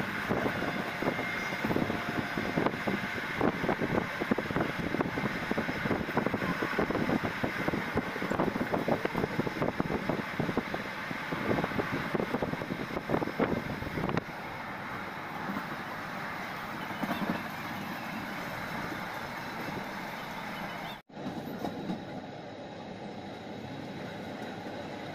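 Passenger train running on the track: the coaches' wheels clatter and rattle densely over the rails, then about halfway through the sound settles into a smoother, steadier and somewhat quieter running noise.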